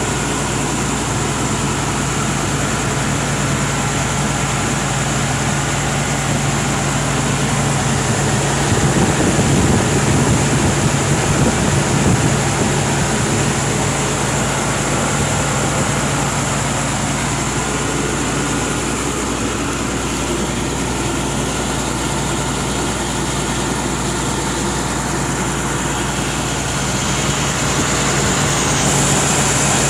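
John Deere 6081HH012 8.1-litre six-cylinder turbo diesel engine running steadily, with a constant high whine above the engine note. It gets a little louder for a few seconds about a third of the way in.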